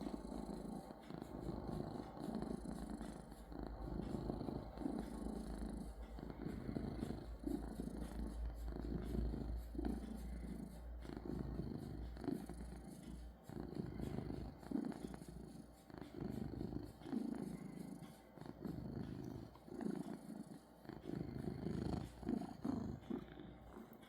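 Domestic cat purring, swelling and fading with each breath about once a second.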